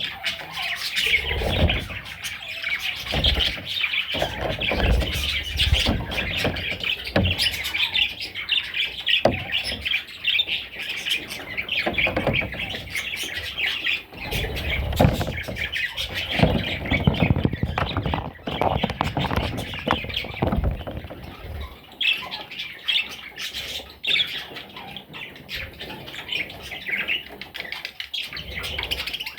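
Budgerigar warbling and chattering without a break, with many quick chirps and squawks. Irregular low thumps run beneath it through about the first two-thirds.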